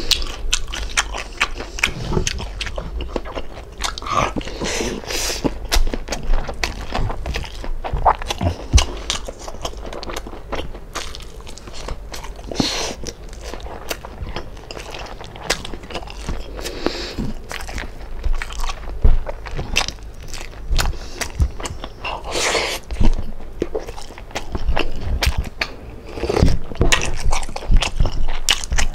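A person eating: steady chewing with many short, irregular crunches of crispy food.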